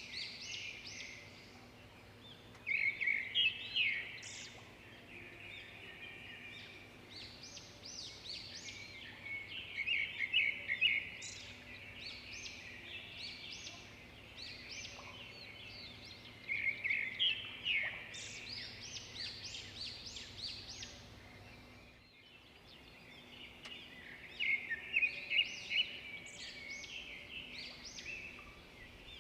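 Songbirds singing and chirping in repeated phrases of quick high notes, a second or two long, with short pauses between them. A faint steady low hum runs underneath and stops about three-quarters of the way through.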